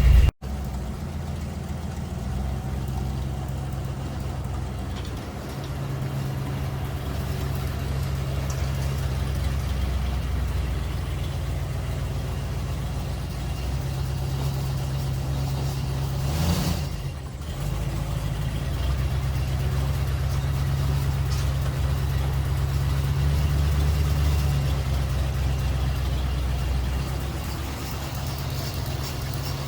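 1951 Ford F1 pickup's 239 flathead V8 running under way on a drive, a steady low engine note that swells and eases. There is a brief dip with a short noise partway through.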